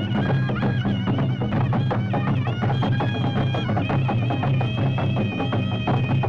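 Traditional music: a shrill wind instrument holding long, wavering high notes over fast, continuous drumming.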